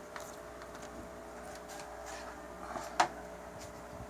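Faint clicks and handling noises, with one sharp click about three seconds in, over a faint steady electrical hum.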